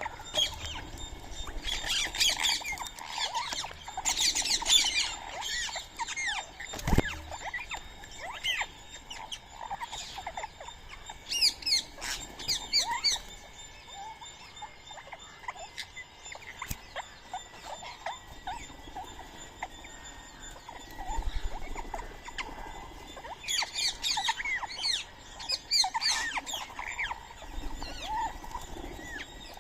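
Birds chirping and calling in scattered bunches of quick, high, rising and falling notes, with one sharp click about seven seconds in.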